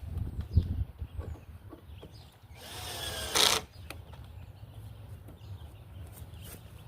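A power drill runs in one short burst of about a second near the middle, after a few low knocks and handling noises at the start.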